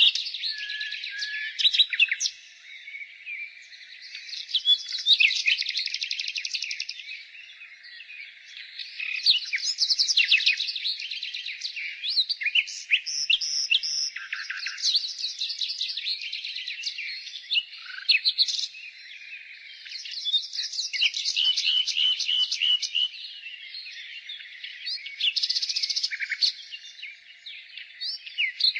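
Nightingale singing: a string of song phrases, each a couple of seconds of fast repeated notes, trills and short whistles, with brief pauses between them.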